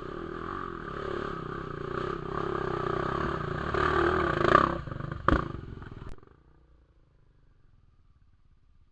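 Trail motorcycle engine running and revving harder, loudest about four and a half seconds in. A sharp knock follows about five seconds in, then the sound cuts off suddenly about six seconds in, leaving only faint background.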